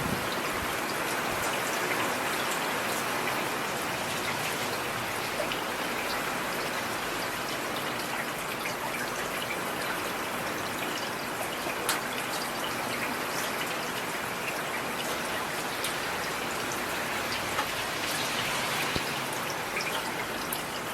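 Steady rain falling on a street, with scattered individual drops ticking sharply over the even hiss.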